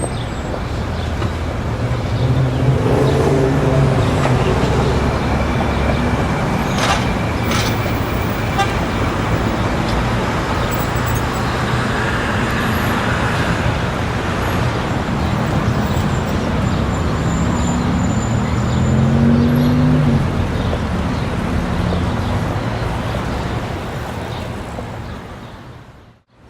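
Busy city street ambience: steady road-traffic noise with passing vehicles. It fades away briefly near the end and comes back.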